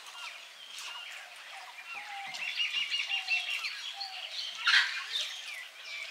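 Several small birds chirping and twittering, with a quick run of rapid repeated notes about halfway through and a short, louder rasp near the end.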